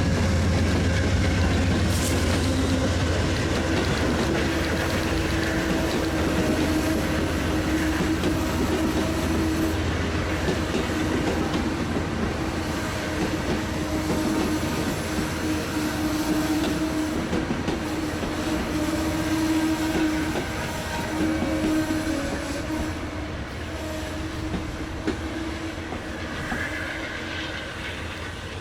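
Metrolink commuter train led by an EMD F59PH diesel locomotive running through the station, with a steady diesel drone and low rumble of wheels on the rails. It fades gradually toward the end.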